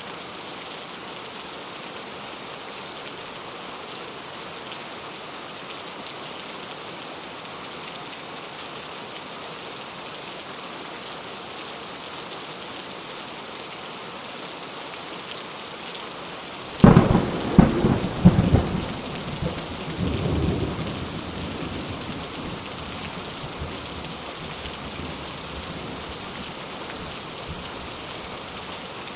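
Steady rain falls throughout. About two-thirds of the way in, a sudden nearby thunderclap breaks with several sharp cracks over about two seconds, then rumbles and fades away over a few more seconds.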